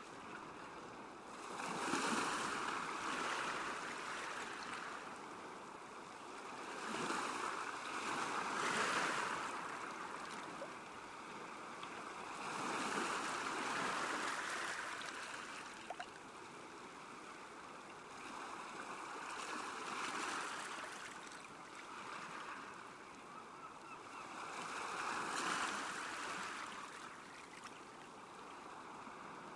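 Small waves washing onto a lakeshore, surging in and drawing back about every five to six seconds.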